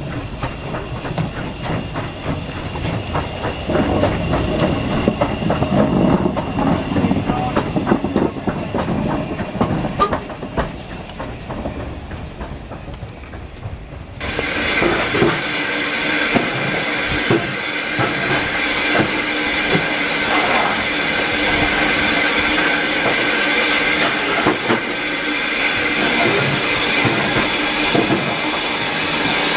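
Steam train running on rails: a low rumble with the clicking of wheels over the track. About halfway through, the sound switches suddenly to a steady hiss of steam over the train's running noise.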